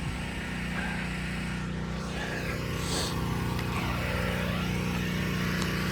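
Steady hum of the soft-washing rig's pump motor running without change.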